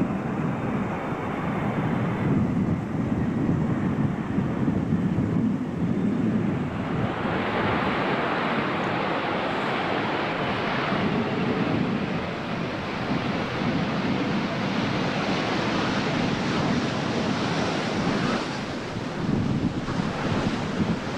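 Jet airliner landing: a steady rushing roar of engines and airflow that grows brighter and fuller about seven seconds in, with wind buffeting the microphone.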